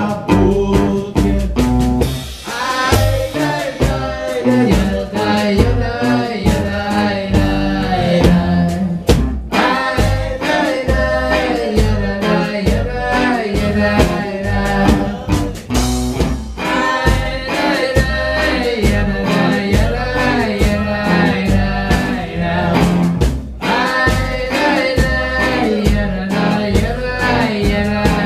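A live band of accordion, clarinet, double bass and drum kit playing an instrumental passage of an old Ukrainian drinking song, with a melody line over a steady drum beat.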